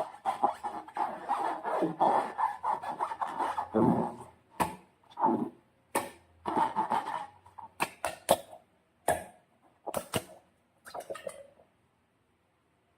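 Slime being squished and worked by hand: about four seconds of dense, wet rubbing and squishing, then a string of separate sticky pops and clicks that stop about a second before the end.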